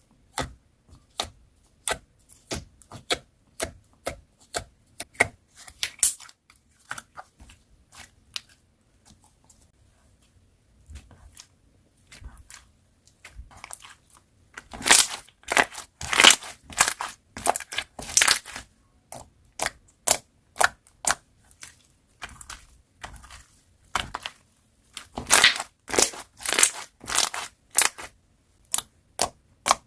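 Slime being played with by hand: a run of short, sharp crackles and pops as it is pressed and stretched, coming thick and loud for a few seconds about halfway through and again near the end.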